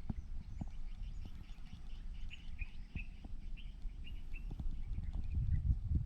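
Small birds chirping repeatedly in short calls over a steady low rumble, with a few light clicks scattered through.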